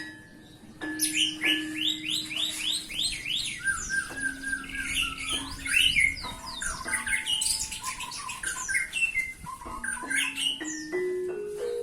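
Domestic canary (white canary) singing: rapid runs of repeated sweeping notes and trills, loud and continuous. Held low tones of background music lie under it, with a rising run of notes near the end.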